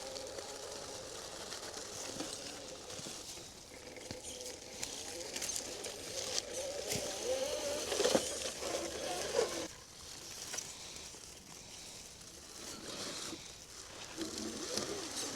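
Electric motor and gears of an RC crawler truck whining, the pitch rising and falling with the throttle, with a few sharp clicks about eight seconds in.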